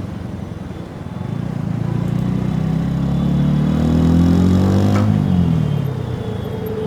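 TVS Apache RTR 4V's single-cylinder engine heard at the exhaust, the revs climbing steadily under acceleration for about four seconds, then dropping sharply as the throttle closes about five seconds in, with a click at the drop.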